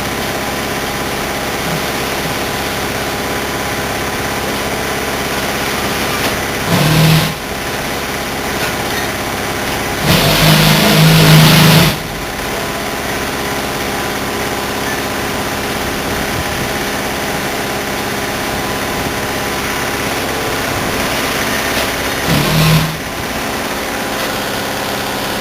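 Truck engine running steadily, with three louder surges of engine noise: a short one about a quarter of the way in, a longer one of about two seconds near the middle, and another short one near the end.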